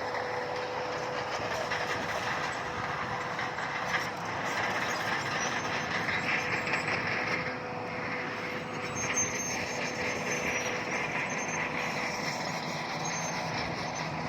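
Heavy earthmoving machinery running steadily, with faint high metallic squeaks in the middle.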